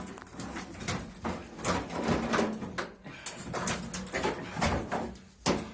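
Irregular knocking and clattering of metal parts as a washing machine is taken apart by hand, with many short sharp strokes.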